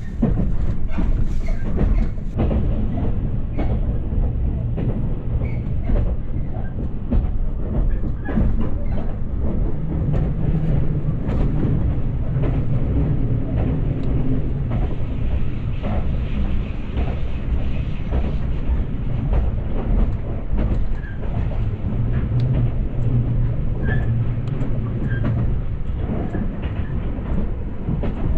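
Passenger train running on the rails: a steady low rumble with irregular clicks and knocks from the wheels.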